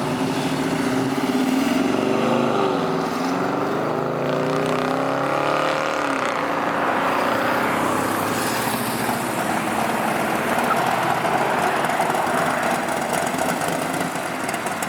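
A car engine revving, its pitch rising and falling over the first several seconds, then running more steadily.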